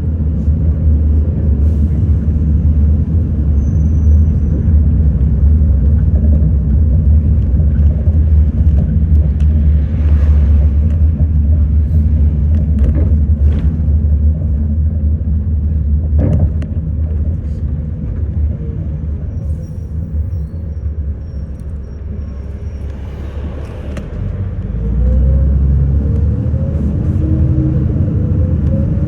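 A city bus in motion, heard from inside: a heavy engine and road rumble with a few knocks and rattles, easing off about two-thirds through, then the engine pulling again with a rising note as the bus speeds up.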